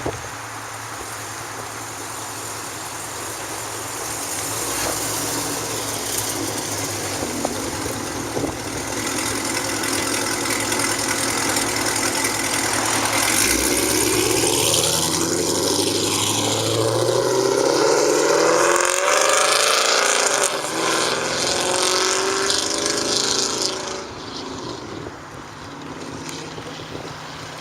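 A car approaching and driving past, its engine growing louder over several seconds, loudest about two-thirds of the way in, then fading.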